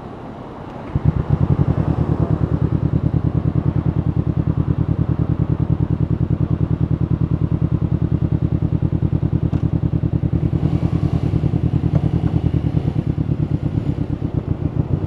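Honda CBR500R's parallel-twin engine, breathing through a Yoshimura full exhaust system, comes in suddenly about a second in and settles into a steady, rapidly pulsing idle.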